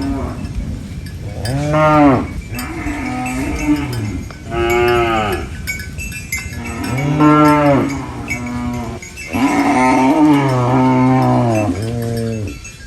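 Cattle mooing: a run of loud, drawn-out moos that rise and fall in pitch, each about a second long, with a longer, wavering moo near the end.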